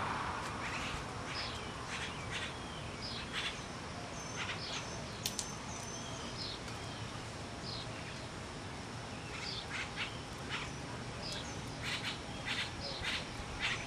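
Birds calling: many short, sharp chirps, some sliding in pitch, scattered irregularly over a steady background hiss.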